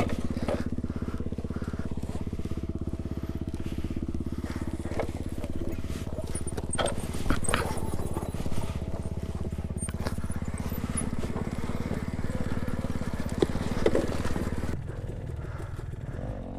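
Petrol dirt bike engine running at a steady speed, with scattered knocks and clatters over it. The engine sound drops off about two seconds before the end.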